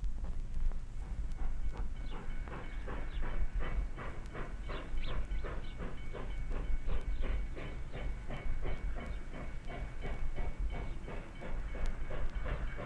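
Illinois Central 2-8-2 Mikado steam locomotive No. 1534 working, its exhaust chuffing in a fast, even beat of about four a second over a low rumble. The beat grows clear about two seconds in.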